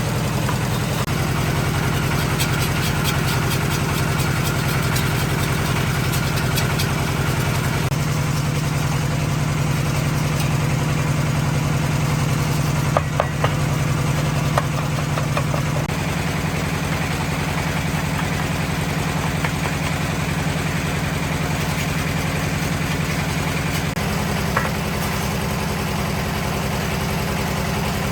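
Concrete mixer's engine running steadily at idle, its tone shifting a few times, with a few light clicks about halfway through.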